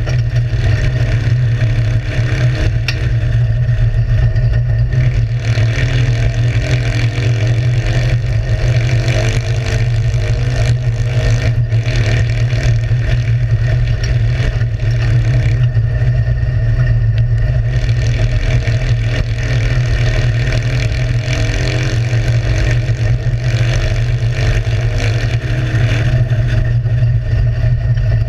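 Citroën 2CV's air-cooled flat-twin engine running hard, heard from inside the stripped cockpit. It is a loud, continuous drone over a steady low rumble, with the revs repeatedly rising and falling as the car is driven round the track.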